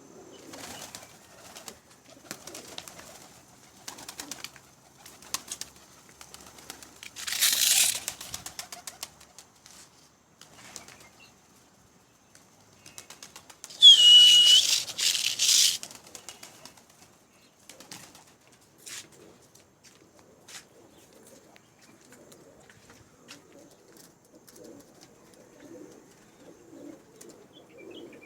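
Pigeons flapping their wings in two loud bursts, about eight seconds in and again around the middle, the second with a short high squeak. Soft pigeon cooing comes in the quieter stretches toward the end.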